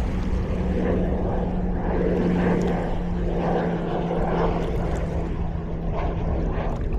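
Strong wind buffeting the microphone, with a steady low drone underneath that cuts out near the end.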